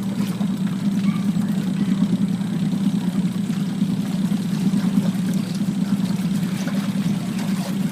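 Washing machine on its spin cycle: a steady, loud, low mechanical hum from the spinning drum and motor.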